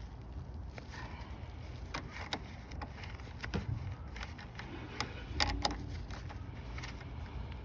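A few sharp clicks and knocks, the loudest a pair about five and a half seconds in, over a low steady rumble.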